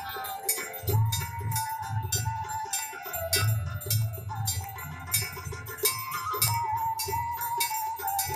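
Ganga Aarti ritual music: many hand bells clanging rapidly over a pulsing drum beat, with a held, wavering melody line above.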